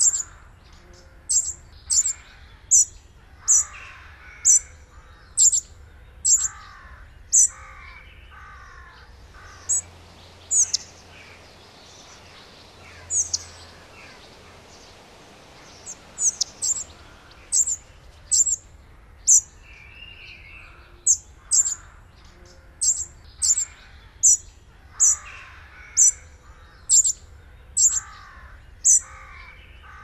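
Birdsong: a small bird repeats a short, thin, high call about once or twice a second, falling quiet for a few seconds midway. Another bird adds lower runs of falling notes.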